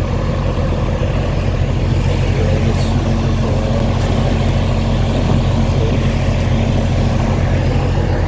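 Semi truck's diesel engine idling steadily close by.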